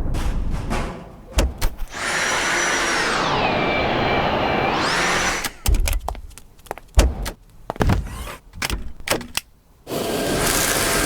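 Dyson V7 cordless vacuum running with a high whine that drops in pitch and climbs back, then a run of sharp clicks and knocks, then running again near the end.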